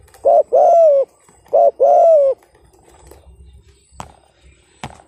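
Spotted dove giving its 'thúc gù' coo: two short-then-long pairs of coos, the long note sliding down slightly at its end. Near the end come two sharp clicks.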